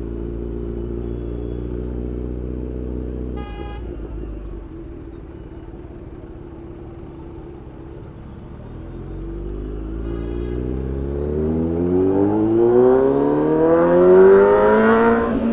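Motorcycle engine running steadily at low revs, a short horn beep about three and a half seconds in, then the engine pulling away and accelerating with a long rising pitch that peaks near the end before dropping at a gear change.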